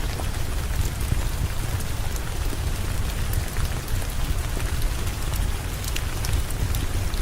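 Heavy rain falling steadily with a deep low rumble, scattered with sharp crackles and pops from a wood fire in a fireplace.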